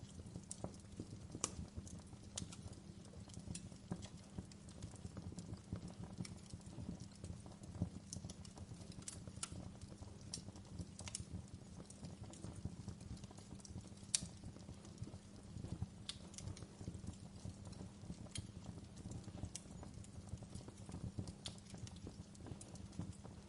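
Wood fire crackling in a fireplace. A steady low rumble runs under dense small crackles, with sharp pops every second or two; the loudest come about a second and a half in and about fourteen seconds in.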